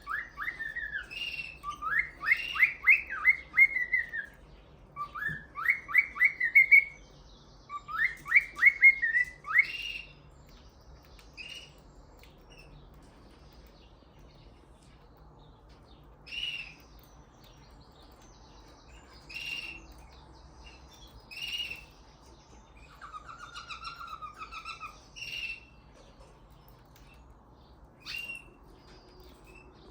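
Male cockatiel singing his courtship song: quick runs of warbled, rising notes in several phrases over the first ten seconds, then single chirps every few seconds and a short buzzy phrase about two-thirds of the way through.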